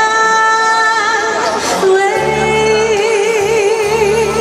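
Female singing over a backing track: a long steady held note, then about two seconds in a lower note with wide vibrato as the backing track's bass line comes in.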